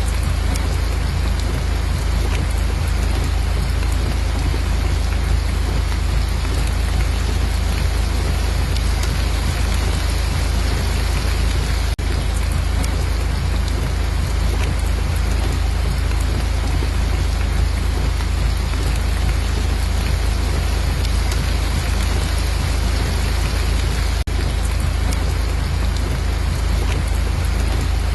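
Steady rain falling, an even hiss of drops with a constant deep rumble underneath.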